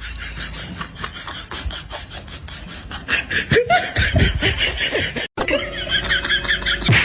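People laughing in short repeated bursts, with a brief dropout about five seconds in where the sound switches to a new clip.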